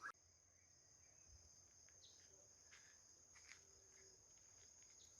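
Faint, steady, high-pitched chirring of insects in the countryside, with a few faint short chirps over it.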